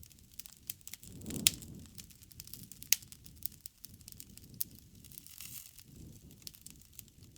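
Wood fire (bonfire) crackling with many sharp pops over a low rush of burning, with two louder pops about one and a half and three seconds in.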